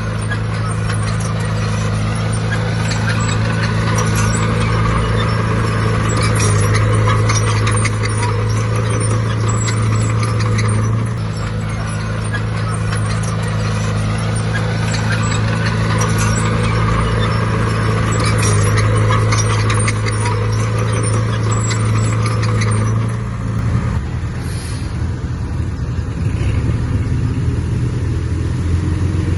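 Diesel engine of heavy earthmoving machinery running steadily under load, with metallic clatter over it. About 23 seconds in, the engine note drops and wavers, then steadies again near the end.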